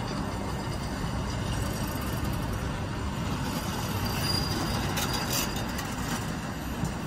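Freight train of empty flat wagons rolling past, a steady rumble of steel wheels on rail, with a brief high wheel squeal about four to five seconds in.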